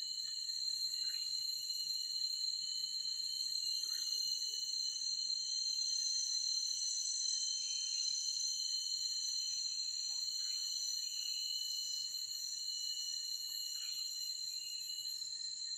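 Forest ambience: a steady, high-pitched chorus of insects holding several unbroken tones, and a bird giving short falling calls every few seconds.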